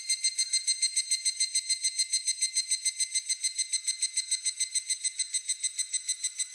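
Higurashi (evening cicada) calling: a rapid, ringing string of evenly repeated pulses, about eight a second, in its 'kana-kana-kana' song.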